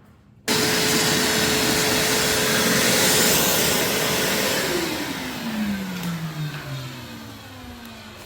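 An electric blower motor switches on abruptly about half a second in and runs with a steady whine over loud rushing air, then is switched off and winds down, its pitch falling over a couple of seconds.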